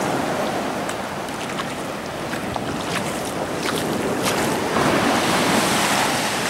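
Ocean surf washing in: a steady rushing of breaking waves and running water that swells into a louder surge about five seconds in, with small crackles through it.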